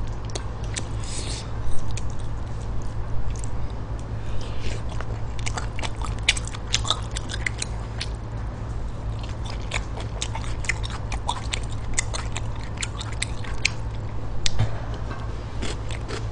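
Close-miked chewing and wet mouth sounds of someone eating spicy stir-fried pork intestines, with many short sharp clicks and smacks through the whole stretch over a steady low hum.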